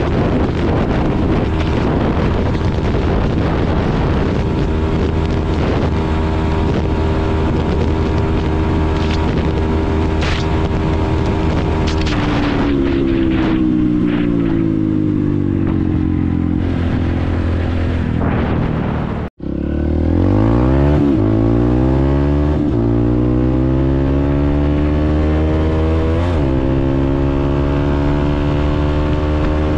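Honda CRF150L's single-cylinder four-stroke engine through an open exhaust pipe, running steadily at high revs, then with its note falling as it slows. After a sudden break about two-thirds of the way in, it accelerates hard, pitch rising through several gear changes.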